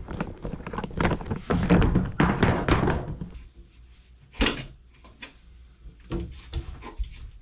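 Handling noise: about three seconds of busy clattering and rustling, then several separate sharp thunks and knocks.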